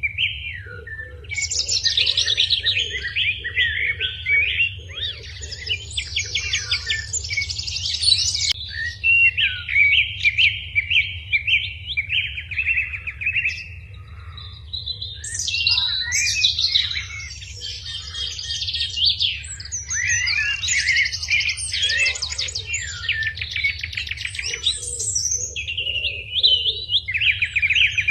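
Several small birds chirping and trilling without pause, fast repeated notes and short sweeping calls overlapping one another.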